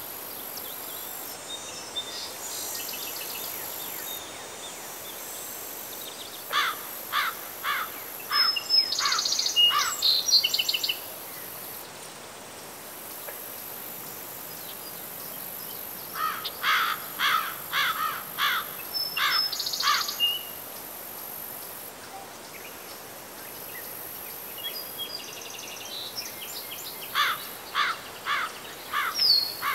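A bird sings three bouts of quick, sharp, repeated notes, about ten seconds apart, over a steady high-pitched insect drone.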